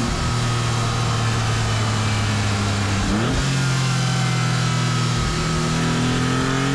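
Maserati MC20's twin-turbo V6 running under load as the car is driven hard, its note slowly changing pitch, with a gear change about three seconds in.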